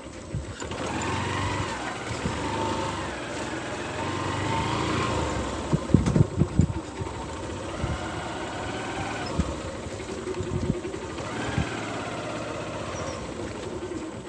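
Small vehicle engine running as it travels, its speed rising and falling, with a cluster of sharp knocks about six seconds in.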